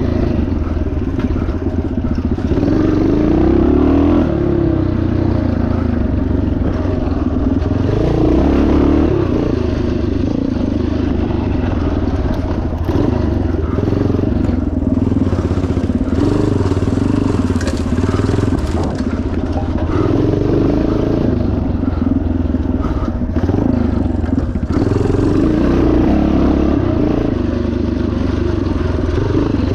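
1977 Yamaha TT500's single-cylinder four-stroke engine running hard under load, its revs rising and falling as the bike is ridden off-road.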